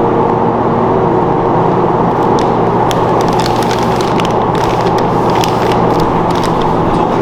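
Steady loud roar with a low hum, as of gas grill burners, with sharp crackling sizzle joining in about two and a half seconds in and coming on and off.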